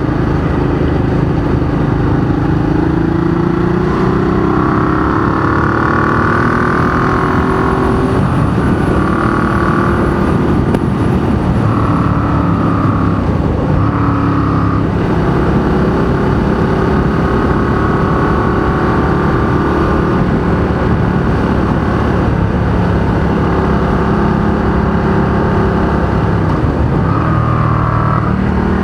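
Ducati Diavel 1200's V-twin engine, fitted with a very loud race exhaust, pulling hard under acceleration. Its note climbs and drops back at several gear changes, with wind rush over it.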